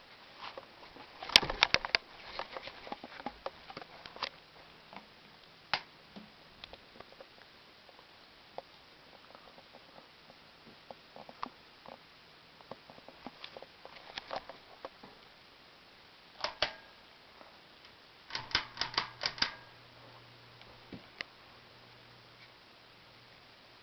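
Heritage Lancaster ceiling fan with irregular clicks and rattles, a quick run of clicks near the end, after which a steady low motor hum sets in.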